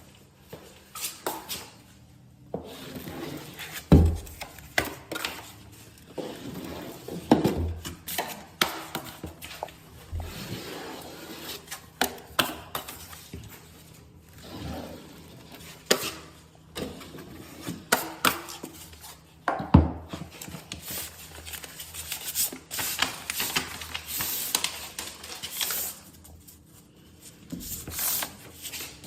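Drywall taping work: a taping knife scraping and smoothing joint compound along an inside corner, in repeated short strokes with occasional sharp knocks of the tool.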